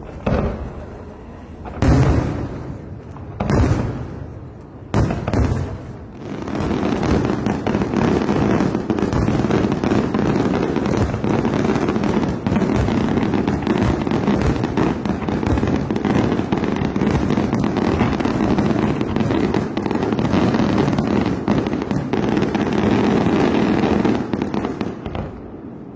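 Aerial fireworks: a few separate shell bursts in the first five seconds, then from about six seconds a continuous rapid barrage of bangs and crackling that stops shortly before the end.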